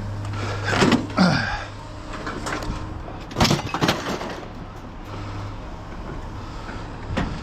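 A steady low engine hum, with a few sharp metallic clanks and knocks about three and a half seconds in, and a short falling squeak about a second in.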